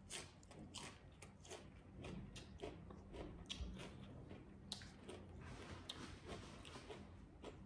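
A person chewing food, faint irregular wet clicks and soft crunches of the mouth at work.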